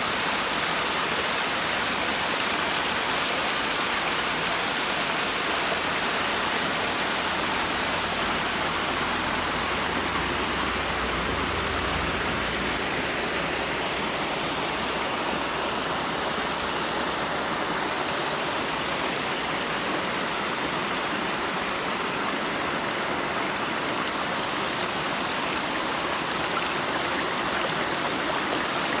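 Steady rush of flowing water, even throughout, with a faint low rumble from about eight to thirteen seconds in.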